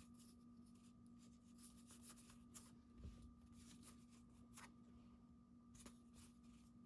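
Near silence: faint scattered rustles and flicks of trading cards being handled, over a steady low electrical hum.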